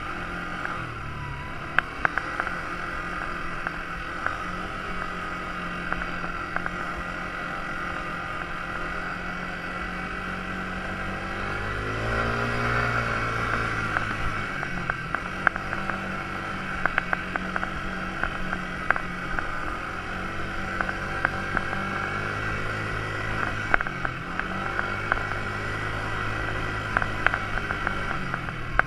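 Quad bike engine running, its pitch rising and falling as it speeds up and eases off around the middle and again near the end, with scattered sharp clicks and knocks.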